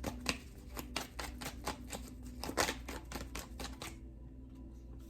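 A tarot deck being shuffled by hand: a quick run of light card clicks that stops about four seconds in.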